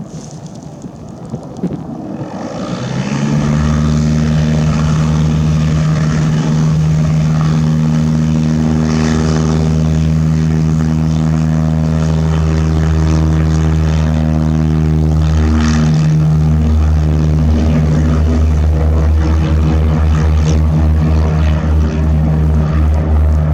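Propeller airplane engine coming up loud about three seconds in, then running steadily with a deep propeller hum, beginning to pulse in the last few seconds.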